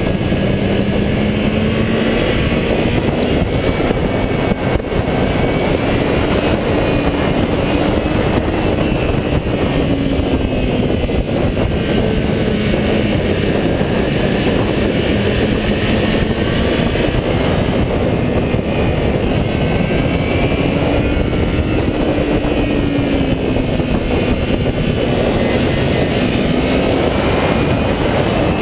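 A 400cc motorcycle engine running under load on a ride, its note rising and falling slowly several times, under a loud, steady rush of wind on the microphone.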